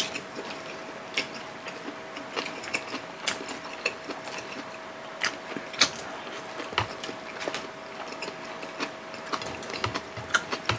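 Close-miked eating sounds: irregular wet clicks and smacks of chewing fried milkfish and rice, eaten by hand. A faint steady hum runs underneath.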